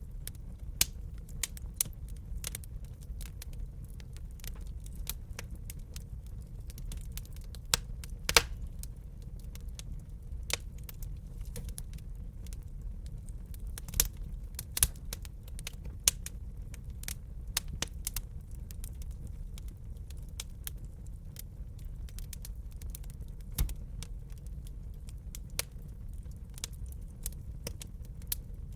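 Burning wood crackling in a fireplace: irregular sharp pops and snaps, several a second, with a few louder pops, over a steady low rumble of the fire.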